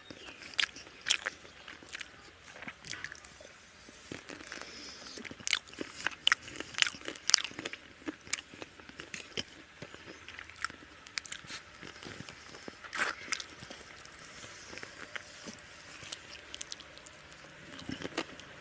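Close-up mouth sounds of a man eating rice and chicken curry by hand: chewing with sharp clicks at irregular intervals.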